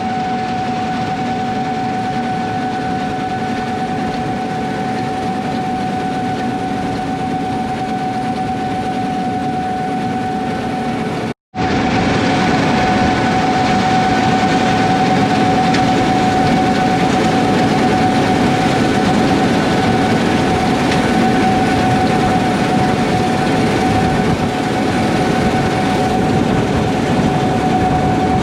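Gleaner S78 combine running in a wheat field: a steady mechanical drone with a constant high whine over it. It breaks off for an instant about eleven seconds in, then carries on a little louder.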